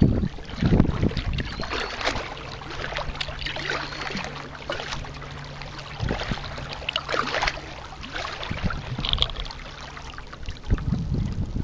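Kayak paddle strokes dipping and splashing in the water, a stroke about every second or so. Gusts of wind buffet the microphone about a second in and again near the end.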